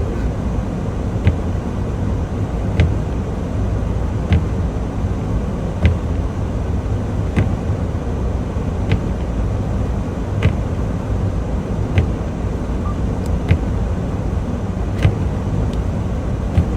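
Semi-truck driving, with a steady engine and road rumble. A sharp click repeats very evenly, about every one and a half seconds.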